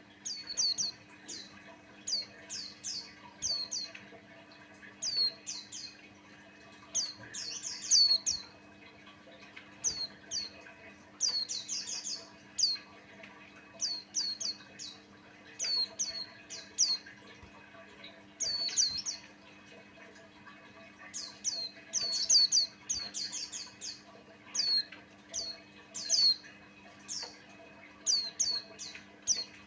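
White-eye (pleci buxtoni) singing: quick clusters of short, high, down-slurred chirps with brief pauses between, over a faint steady hum.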